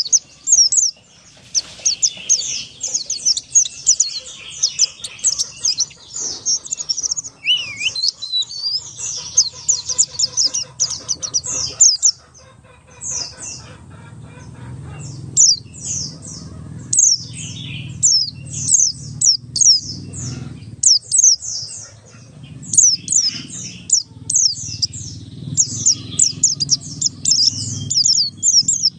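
Pleci buxtoni white-eye singing a long, fast ngalas song: rapid runs of high, sharply falling chirps strung together with only short breaks. A low steady hum sits behind it, stronger in the second half.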